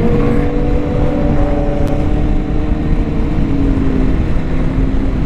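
Motorcycle engine running at a steady cruise, its note holding nearly level, under a heavy low rush of wind noise on the rider's microphone.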